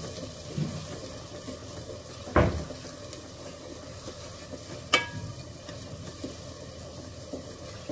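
Onion, garlic and ginger paste sizzling in hot oil while being stirred with a wooden spatula in an aluminium pot, being fried down for a curry base. Twice, about two and a half seconds apart, the spatula knocks sharply against the pot, the second knock ringing briefly.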